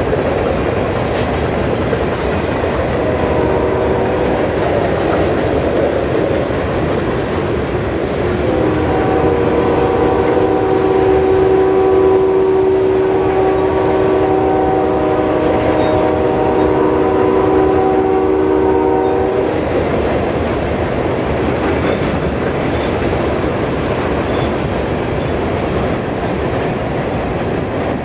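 Freight cars rolling past with steady wheel rumble and clickety-clack over the rail joints. From about a third of the way in until past the middle, a locomotive horn sounds a held multi-note chord over the rumble.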